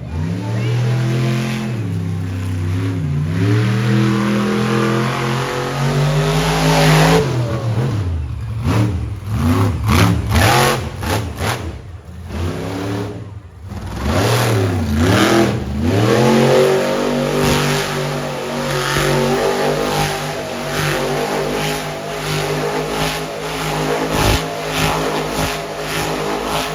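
Monster truck engine revving hard, its pitch dropping and climbing again several times, with quick throttle blips in the middle, then held at a steady high pitch for the second half.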